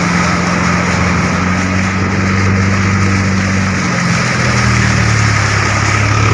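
Vehicle engine running steadily under a constant hiss, its note shifting lower about four seconds in.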